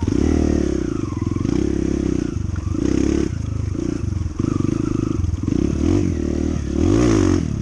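Honda CT125's single-cylinder four-stroke engine running under way, its revs rising and falling several times in the second half.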